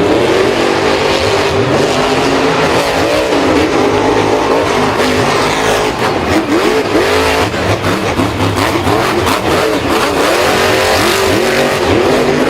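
Vehicle engines revving, several at once, their pitches rising and falling over and over.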